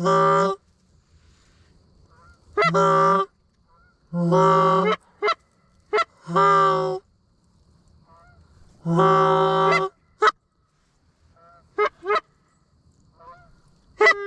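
Goose honking: a series of loud, drawn-out honks a second or two apart, with quick short clucks in between, as geese work toward the decoys.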